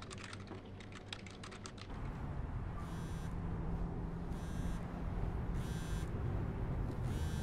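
Rapid computer keyboard typing for about the first two seconds. Then, over a steady low rumble like a car interior, a mobile phone rings in short repeated bursts about every second and a half.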